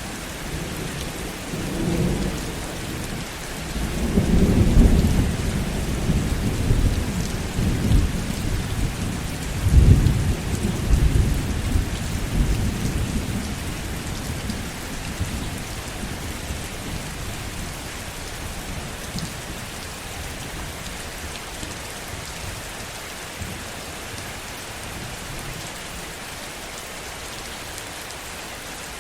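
Steady heavy rain with a long roll of thunder, low and loudest from about four to twelve seconds in, then dying away and leaving the rain alone.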